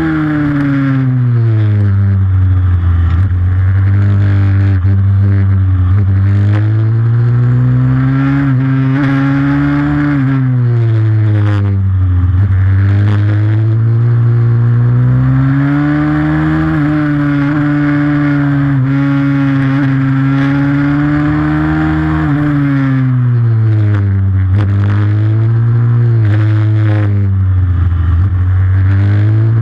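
Single-cylinder pit bike engine racing, its revs falling off and climbing again every few seconds as the rider backs off and accelerates.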